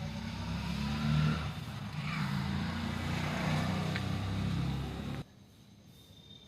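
A motor running steadily with a low hum and a hiss over it, cutting off suddenly about five seconds in.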